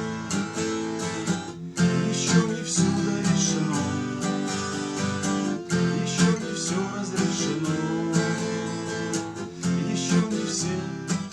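Acoustic guitar strummed in steady chords, an instrumental passage between sung verses of the song.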